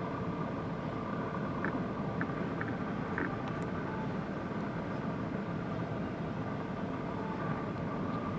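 Steady vehicle engine noise, with a few faint short chirps about two to three seconds in.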